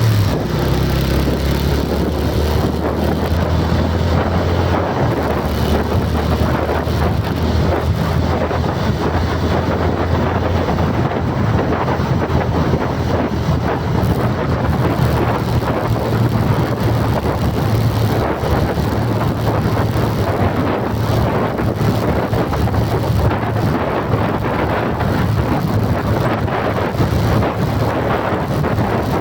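A vehicle running steadily with a constant low hum, under heavy wind noise on the microphone.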